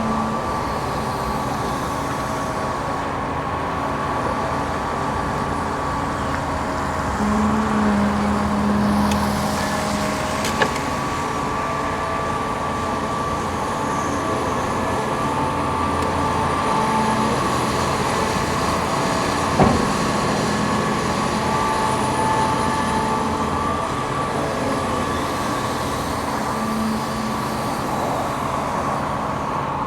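Hydraulic excavator at work: a steady diesel drone with a constant whine and short held tones that come and go. Two sharp knocks sound, about ten and twenty seconds in.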